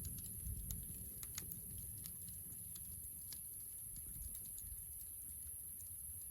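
Campfire of gathered natural wood crackling, with irregular sharp pops and snaps over a low steady rumble.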